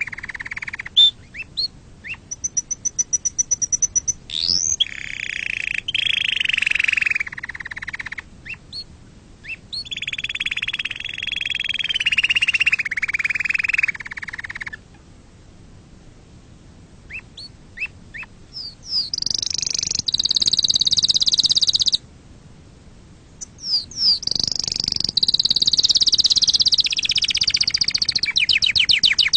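Domestic canary singing in phrases of rolling trills and fast repeated chirps, with two short pauses. A very fast high trill comes near the end. It is the kind of clean song played to tutor young canaries.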